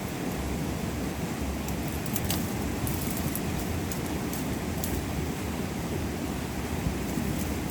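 Steady rushing outdoor noise with a few faint, sharp clicks scattered through it.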